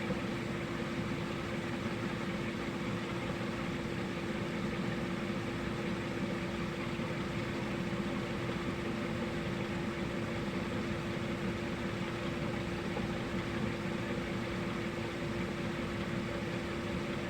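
Steady machine hum with one constant tone, unchanging throughout.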